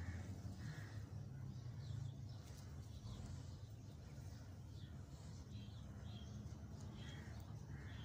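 Birds calling faintly in short, scattered calls over a low, steady background rumble.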